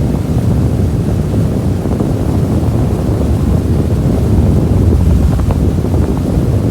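Heavy wind buffeting the microphone on a speedboat running fast, over the steady drone of its 5.7-litre sterndrive engine and the rush of water past the hull.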